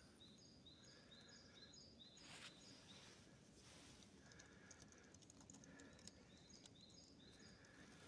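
Near silence with faint distant bird song: runs of short high notes, about two or three a second, in two spells. A soft brief rustle about two and a half seconds in.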